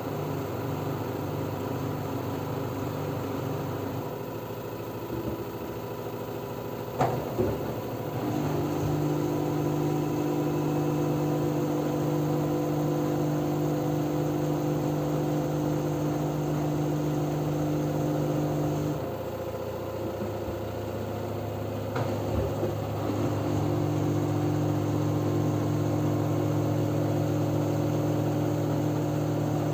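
LG F10B9LD front-loading washing machine in its spin stage: the motor and drum run with a steady hum. Twice the drive eases off and then picks up again a few seconds later, each time with a short knock just before it restarts.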